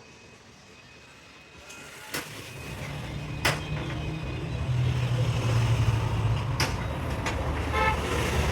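A heavy truck's engine running, growing louder from about two seconds in, with several sharp knocks over it.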